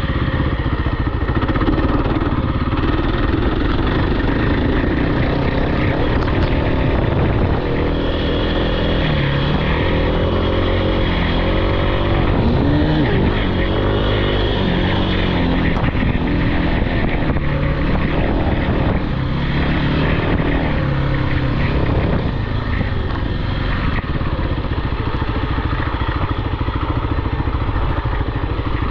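Off-road vehicle engine running hard, its pitch repeatedly climbing and dropping as the throttle is worked through the middle stretch, then settling steadier near the end.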